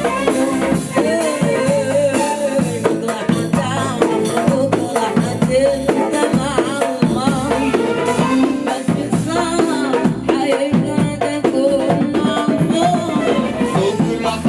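Arabic pop song played by a band in rehearsal: drum kit and shaken percussion keeping a steady beat under a melody line with wavering, ornamented runs.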